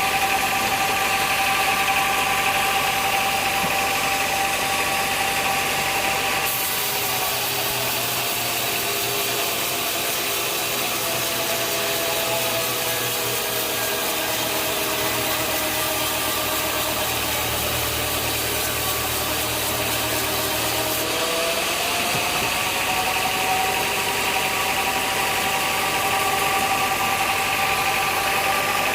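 Sawmill machinery running steadily with a whining tone. Through the middle of the stretch the pitch sags and wavers, as the machine does under load, then climbs back.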